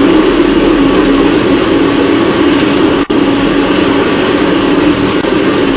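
Loud, steady vehicle engine and road noise with a constant droning tone. It drops out very briefly about three seconds in.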